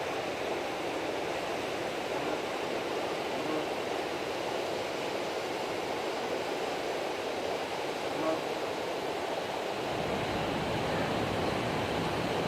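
Steady wash of ocean surf on a beach, growing fuller and deeper about ten seconds in.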